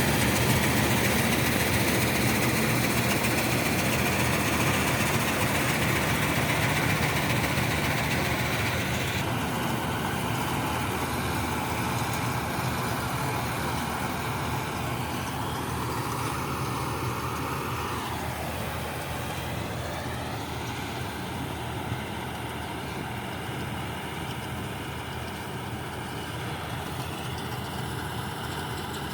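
John Deere 5405 tractor's diesel engine running steadily, driving a chaff cutter. The upper, whining part of the sound drops away about a third of the way in, and a whine falls in pitch a little past halfway, as if the machinery is slowing.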